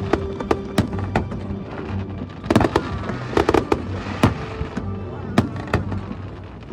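Fireworks bursting: a rapid, irregular run of sharp bangs and crackles, with background music playing under them.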